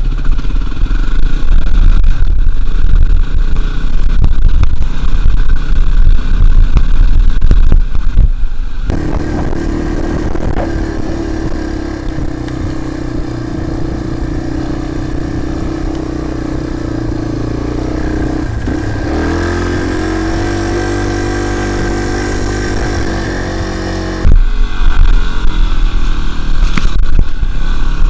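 Dirt bike engine running under way, with a heavy low rumble over it. In the middle stretch the engine's note comes through clearer and rises as it revs up, then the rumble returns suddenly near the end.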